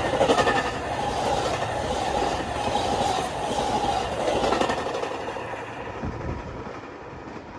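Metra commuter train's stainless-steel bilevel coaches rushing past at speed, with repeated clicks from the wheels on the rails. The sound fades from about five seconds in as the cab car at the rear pulls away.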